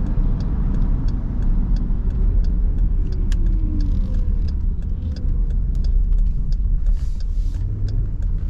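Car engine and tyre noise heard from inside the cabin while driving on a wet road: a steady low rumble with the engine note rising and falling slightly. A light, regular ticking runs through it at about two ticks a second.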